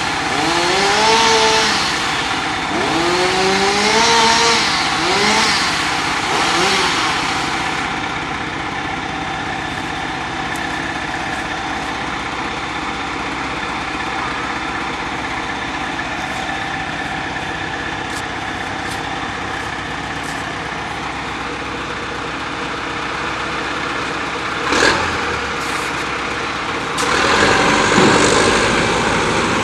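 Heavy equipment engines working on branch cleanup. An engine revs up with a rising pitch four times in the first several seconds, then runs steadily. There is a sharp knock about 25 s in and a louder surge near the end.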